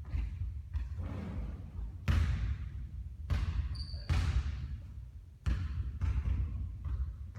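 Basketball bouncing on a court floor: about eight sharp, irregularly spaced bounces, each trailing off in a short echo.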